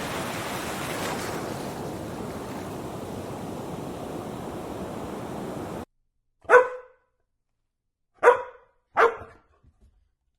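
A steady rushing noise, like surf, cuts off abruptly about six seconds in. After a moment's silence a dog barks three times, the last two close together.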